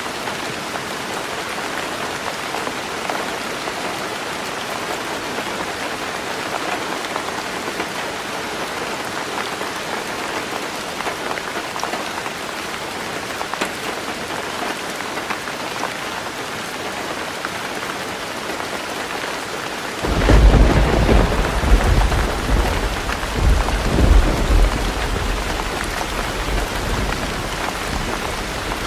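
Heavy rain falling steadily on a roof. About two-thirds of the way in, a loud, low rumble of thunder breaks in suddenly, swells twice and then dies away under the rain.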